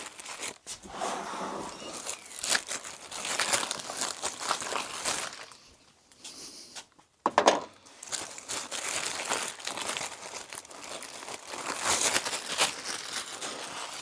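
Plastic packaging crinkling and rustling as it is rummaged through for small plastic parts, with one sharp knock about seven and a half seconds in.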